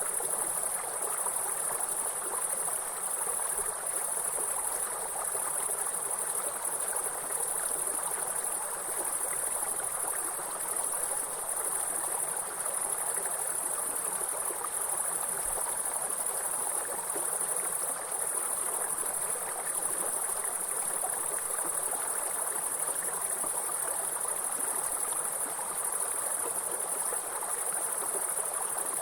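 Insects chirring in a steady high-pitched drone over the even rush of running water.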